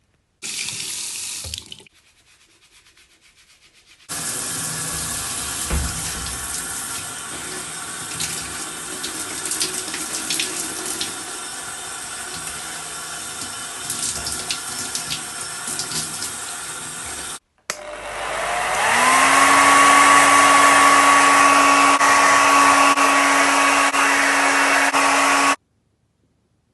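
Running water from a shower head, heard in several abruptly cut stretches of steady spray. The last, loudest stretch has a hum that rises in pitch and then holds steady over the water.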